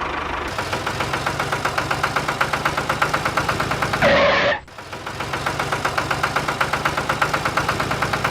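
Tractor engine chugging steadily at about four to five beats a second. Just after the middle a short, louder noisy burst cuts in and the engine dips, then it chugs on.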